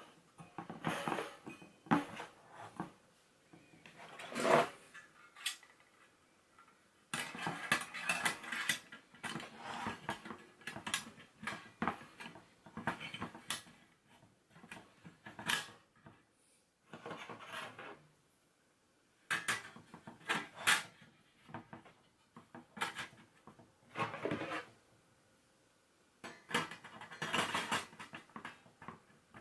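Light metal pieces clinking and clattering as they are handled, in bursts of a second or two with short quiet gaps between.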